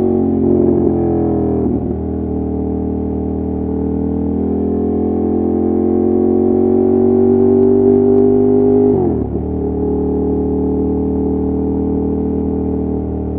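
Ducati Monster 1200's L-twin engine pulling under way. Its pitch dips briefly near two seconds in, then climbs steadily as the bike accelerates, drops sharply about nine seconds in, and holds steadier after.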